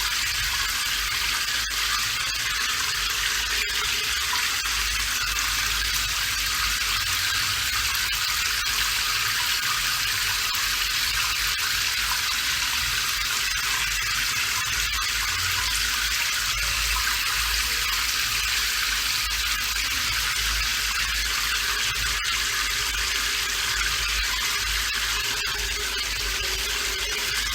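Steady rain falling: an even, unbroken hiss with a low rumble beneath and scattered faint drip ticks.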